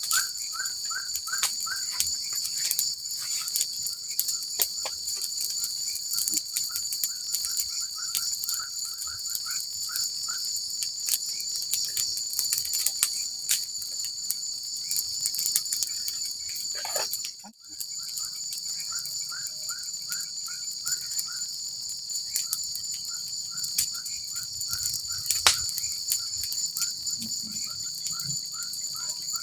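Forest insect chorus, crickets trilling steadily in a high, continuous band. Over it, a caller repeats short chirping notes in runs of about four a second. The sound briefly drops out about two-thirds of the way through.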